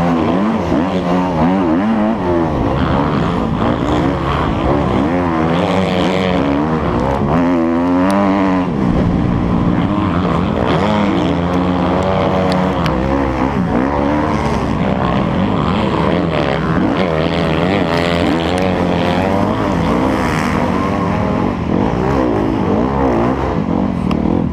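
Motocross bike engine revving hard, its pitch rising and falling over and over as the rider accelerates, shifts and backs off around the track.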